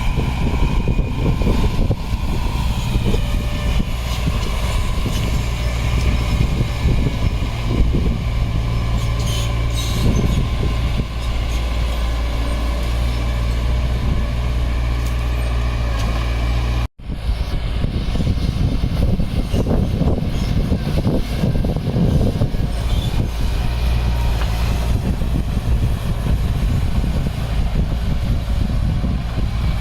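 Heavy diesel earthmoving machinery running steadily with a deep engine note, cut off by a sudden momentary silence a little past halfway before the engine sound resumes.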